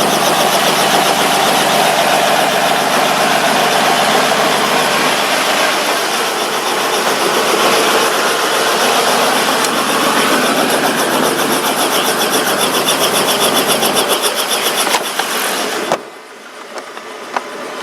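Helicopter engine and rotor running loud and steady, with a fast, even pulsing; about two seconds before the end the sound drops off abruptly to a much quieter level with a few clicks.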